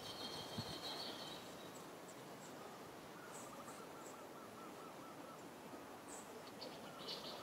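Faint outdoor background with birds calling: a thin high call in the first second or so, a quick run of repeated notes around the middle, and a few short chirps near the end.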